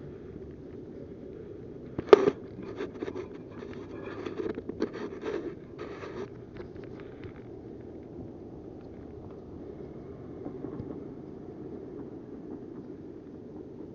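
A sharp knock about two seconds in, then several seconds of irregular scraping and rustling as a magnet-fishing rope is handled and tied off, over a steady low background noise.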